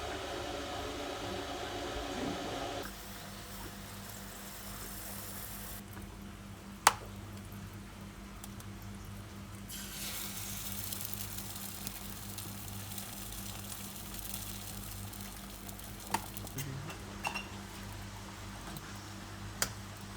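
Food sizzling in a frying pan over a steady low hum, with one sharp clink of a utensil about seven seconds in and a few lighter knocks near the end.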